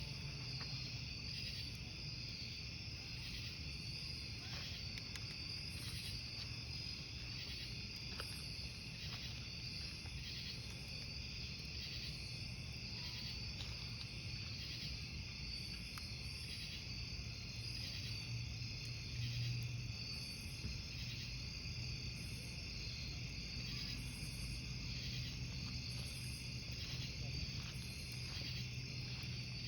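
Crickets chirping steadily in a dense chorus, with the occasional faint crackle of a wood campfire and a low rumble underneath.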